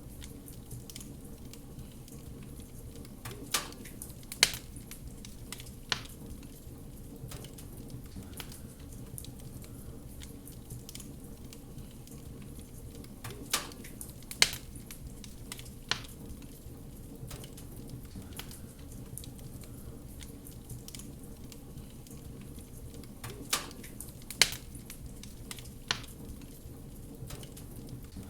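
Wood fire crackling, with a steady low rumble and small ticks, and sharp louder pops in sets of three that come back about every ten seconds.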